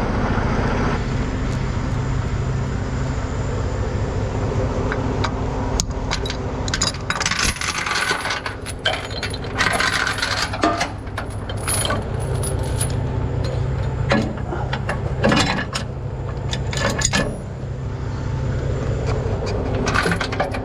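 Metal chain links clinking and rattling in several bursts, a tow truck's safety chains being handled and hooked, over a truck engine idling steadily.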